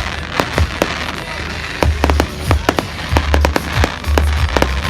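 Fireworks display: rapid, irregular cracks and pops from bursting shells, over low booming and continuous crackle.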